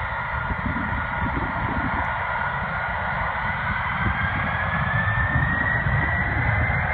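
Pratt & Whitney JT9D turbofan engines of a Boeing 767-300 spooling up for takeoff: a deep rumble with a whine that rises in pitch over the last few seconds, growing steadily louder.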